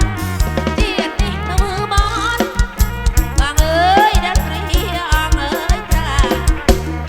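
Live kantrum folk music played through a PA sound system: a heavy, evenly repeating bass beat under a wavering, sliding melody line.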